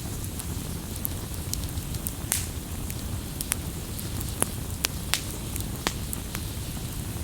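Wood campfire burning, a steady low rush with irregular sharp crackles and pops, several louder snaps scattered through.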